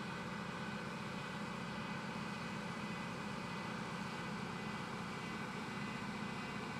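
Steady, even whir and hum of a running industrial CNC woodworking machine, with a few faint steady tones over it.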